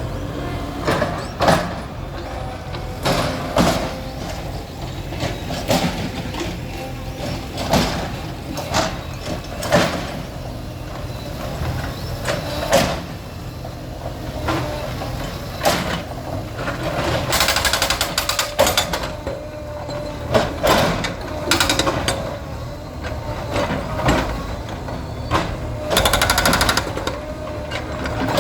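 Bulldozer running during demolition, its engine rumbling under repeated heavy knocks and crashes from structures being broken down. Two longer stretches of crashing come in the second half.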